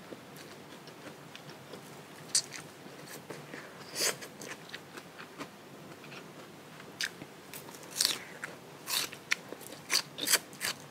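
Close-up crunchy bites and chewing of raw, fridge-chilled bitter melon: a few separate crisp crunches at first, then a quicker run of crunches in the last few seconds.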